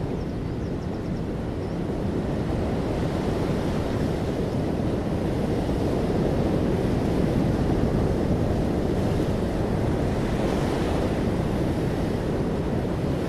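Sea waves washing onto a beach: a continuous surf noise, swelling a little louder past the middle, with a brief brighter hiss of breaking foam near the end.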